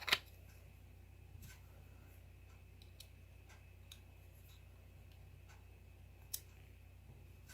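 A sharp click just after the start, then a few faint clicks and taps of small hard plastic and metal lightsaber hilt parts being handled, over a low steady hum.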